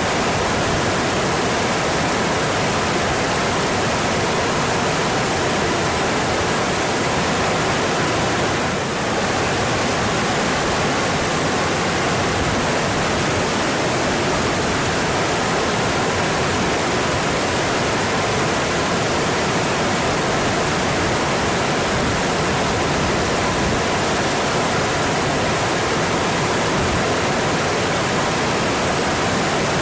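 Mountain stream rushing over rocks in a steady, unbroken wash of water noise, with a slight brief drop in level about nine seconds in.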